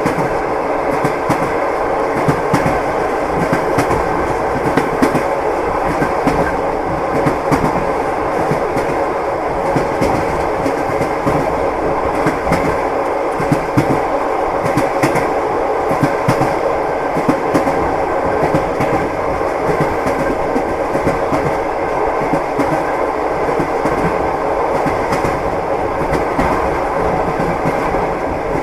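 Train wheels clattering on the rails as a train runs along: a steady rumble with frequent clicks from the wheels crossing the rail joints.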